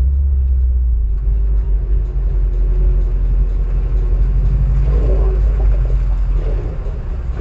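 Car engine idling with a deep, steady rumble.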